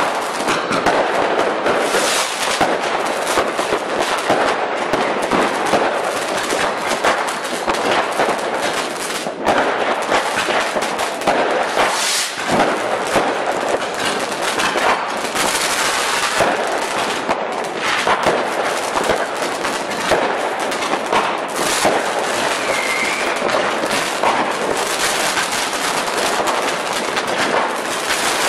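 Fireworks going off in quick succession: a dense, unbroken rattle of crackling pops and bangs from many effects at once.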